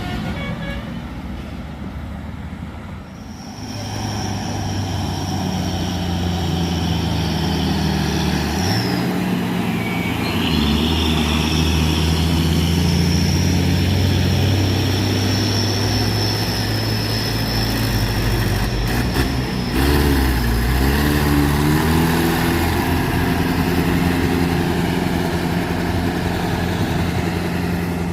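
Heavy truck engine pulling hard up a steep climb, with a steady high whine above it. The engine note rises and breaks off briefly about nine seconds in, then picks up again and runs on steadily.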